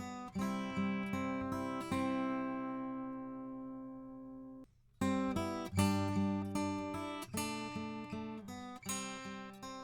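Recorded acoustic guitar playing picked notes and chords, passed through a Warm Audio EQP-WA tube equalizer with its low-frequency cut applied. A ringing chord cuts off abruptly a little before halfway, and the playing starts again a moment later.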